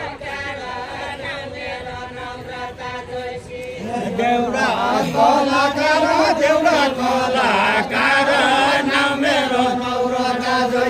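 A group of voices singing a Deuda folk verse together in a slow, chant-like unison, unaccompanied. The singing grows louder about four seconds in as more voices join on a lower line.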